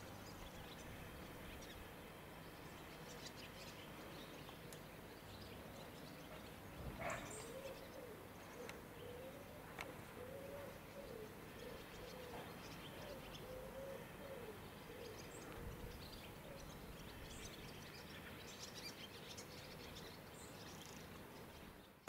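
Faint birdsong: a low, wavering cooing call repeated for several seconds through the middle, with short higher chirps, over a steady low background rumble. A short sharp knock comes about seven seconds in.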